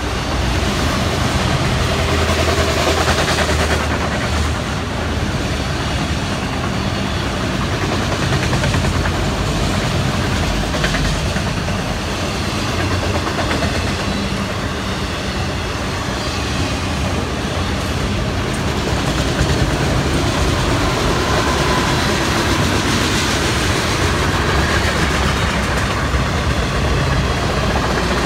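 A long freight train's autorack and tank cars rolling past at close range. Steel wheels on the rails make a steady, unbroken rolling noise.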